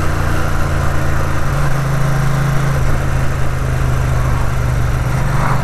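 Ducati 900 SS's air-cooled V-twin running steadily under way, its pitch shifting slightly partway through, with wind rush.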